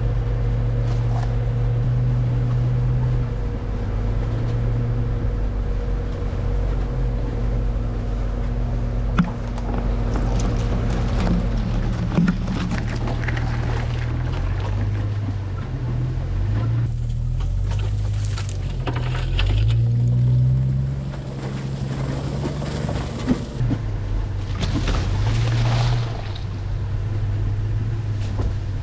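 1999 Jeep Cherokee XJ's engine running as it drives, its pitch rising and falling with the revs, over a rushing noise of wind and travel.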